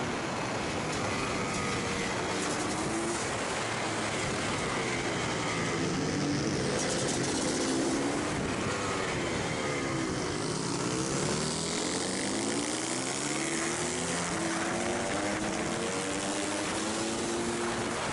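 Supermoto racing motorcycle engine heard onboard, its pitch repeatedly rising and falling as it revs up through the gears and drops back for corners, over a steady rush of wind and wet-road tyre spray.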